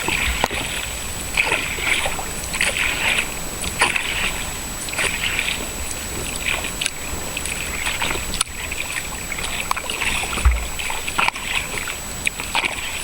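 Sea kayak paddle strokes, the blade splashing into and out of the water at a steady rhythm of about one stroke every second and a quarter.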